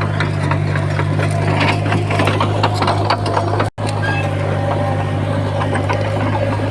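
A heavy earthmoving machine's diesel engine running steadily, with irregular clanks and crackles of metal, stone and soil over it. The sound cuts out for an instant about halfway through.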